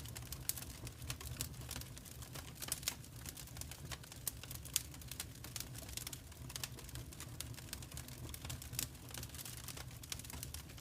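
Wood fire crackling in a fireplace: irregular snaps and pops over a low steady rumble.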